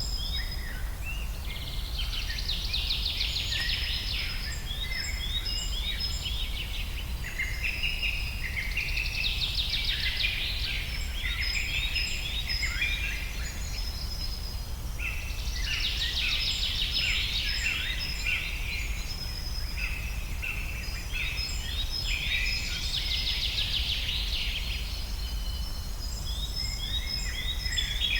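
Forest birds singing: one bird's fast, trilled song phrase comes about every six to seven seconds over steady high chirping from other birds, with a steady low rumble underneath.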